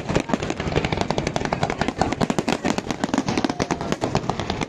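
Fireworks going off in rapid succession: a dense, irregular crackle of many sharp pops and bangs each second.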